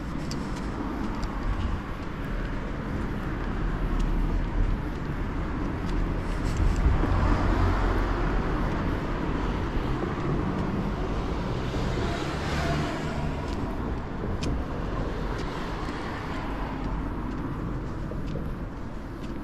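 Road traffic: a motor vehicle's tyre and engine noise swelling as it passes, loudest in the middle of the stretch, then easing off to a steady traffic hum.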